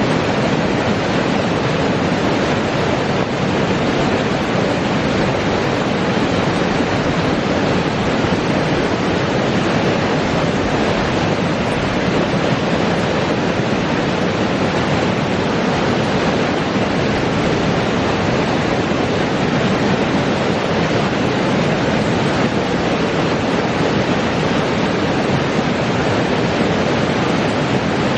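A spring creek flowing: a steady, unbroken rush of water.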